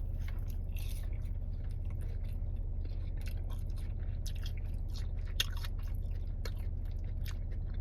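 A person chewing and biting food close to the microphone, with irregular small crunches and wet clicks, over a steady low hum.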